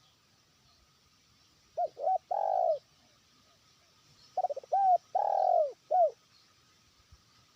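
Spotted dove (terkukur) cooing its territorial call, a captive decoy bird calling out to rivals: two phrases, each a few short coos followed by a longer rolling coo, about two seconds in and again about four and a half seconds in.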